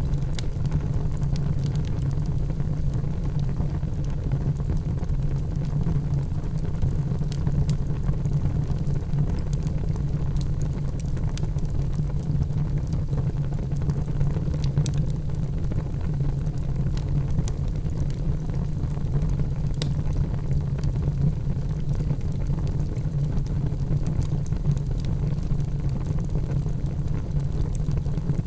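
Wood fire in a fireplace crackling, with scattered sharp pops over a steady low roar.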